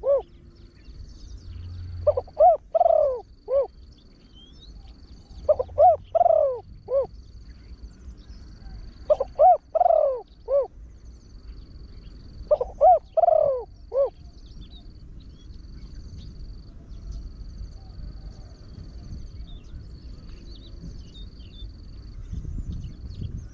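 Deep-voiced spotted dove cooing: four phrases of about four coos each, about three and a half seconds apart, then it falls silent about fourteen seconds in. A faint, high, steady tone comes and goes in the background.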